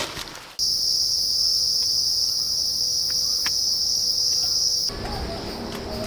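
Loud, steady, high-pitched shrilling of insects. It starts abruptly about half a second in and cuts off near five seconds, leaving a fainter insect buzz.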